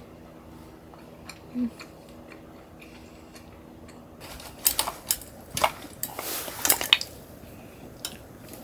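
Cooking utensils and dishes clinking and clattering. Faint scattered ticks at first, then about halfway through a quick run of sharp clacks and scrapes.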